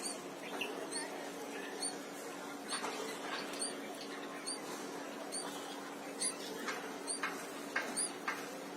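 Bulbul nestlings giving thin, high squeaky cheeps, repeated over and over, with a few louder calls in the second half, over a steady low hum.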